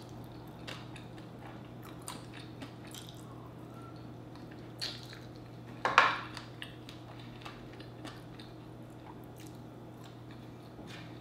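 A person chewing and biting saucy chicken wings: faint, scattered wet mouth clicks and chews, with one louder short noise about six seconds in.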